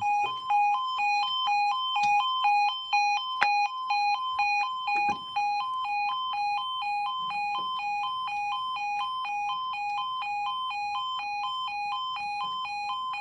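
Level crossing warning alarm sounding a continuous two-tone warble, switching rapidly back and forth between a lower and a higher note.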